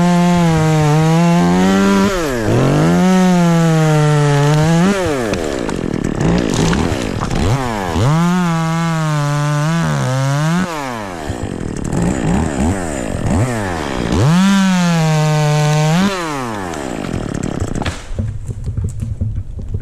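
Chainsaw cutting into ash wood, the engine revving up and down in about four surges of a couple of seconds each, then dropping back to idle near the end.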